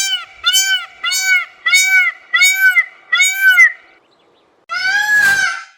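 Peacock calling: a quick run of short, arching, nasal calls, nearly two a second, then after a brief pause one longer, louder wailing call.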